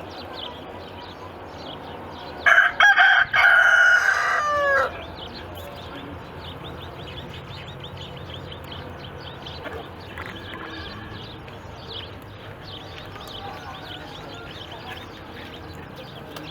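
A rooster crowing once, about two and a half seconds in: a few short opening notes, then a long held note that falls away at the end. Faint rapid chirping continues underneath.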